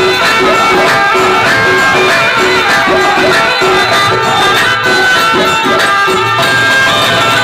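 Loud Indian folk-style song with a moving instrumental melody over a steady low note, played at high volume through a DJ sound system.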